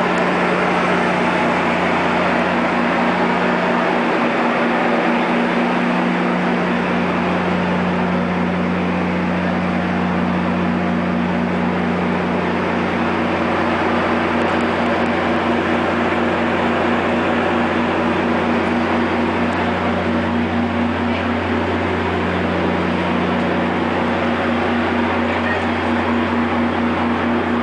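BNSF diesel-electric locomotive idling: a steady low engine hum with an even mechanical whirr over it. The lowest hum strengthens a little about six seconds in.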